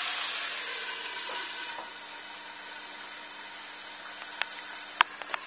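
Broccoli and onion frying in oil in a wok over high heat, the sizzle dropping to a softer, steady hiss over the first two seconds as a glass lid goes on. A sharp click near the end.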